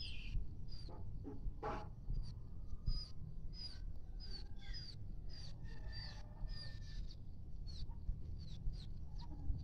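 Village chickens: a run of short, high peeps, about two a second, mixed with a few lower clucking calls, over a low background rumble.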